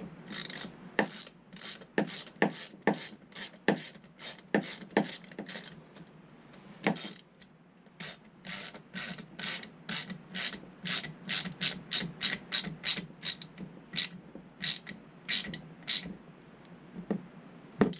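Hand ratchet clicking in repeated strokes, about two or three clicks a second with a short pause partway through, as a blower motor is fastened into its belly-band mount.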